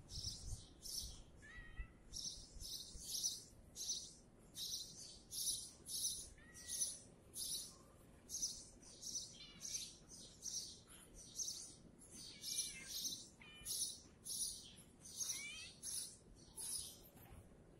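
Birds chirping: a run of short, high chirps repeated about twice a second, with a few lower sliding calls mixed in.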